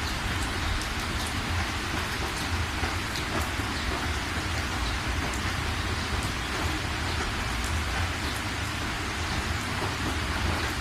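Steady heavy rain falling on surfaces, with scattered individual drop ticks over a constant low rumble.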